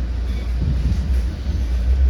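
Steady low rumble heard inside a commuter train coach, the train's running noise.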